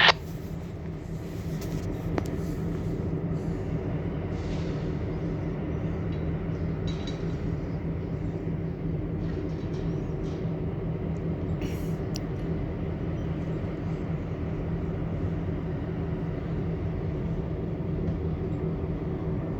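Diesel freight locomotives idling at a standstill, a steady low drone that does not change. A short sharp click comes right at the start.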